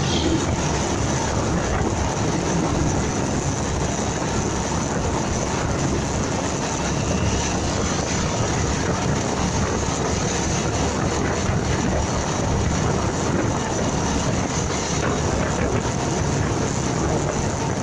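Motorcycle riding at a steady pace: engine running under a constant rush of wind and road noise on the microphone.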